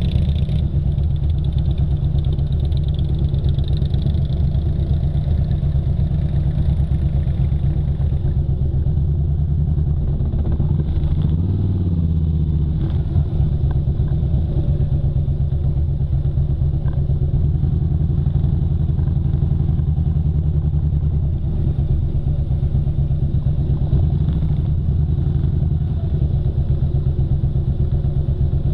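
Motorcycle engine running steadily under way, a dense pulsing low rumble, with a brief change in engine note about twelve seconds in.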